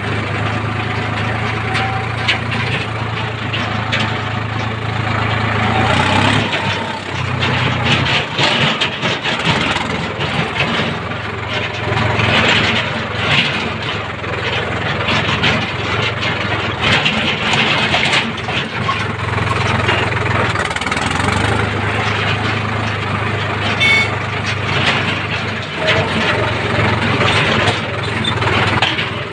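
Diesel engine of heavy machinery running at work, its steady low note changing briefly about six seconds in and again around twenty seconds in, with continuous clattering noise over it.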